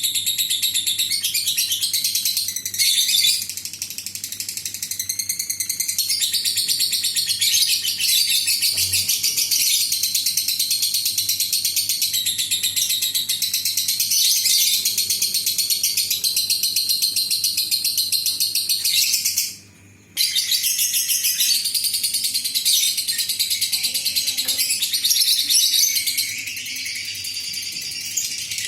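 Lovebird singing its long 'ngekek' song: a rapid, high-pitched chattering trill that runs almost without pause, breaking off once for a moment about twenty seconds in.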